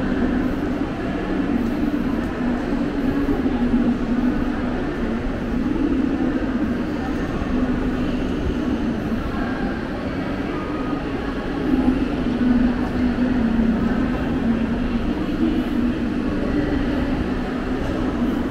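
Railway platform ambience: a steady hum from a standing Mumbai suburban electric multiple-unit train, with people's voices mixed in.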